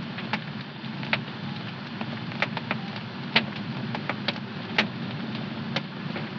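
Wood fire crackling in a fireplace: irregular sharp pops and snaps, a few louder ones about three and a half and five seconds in, over a steady low rush of flame.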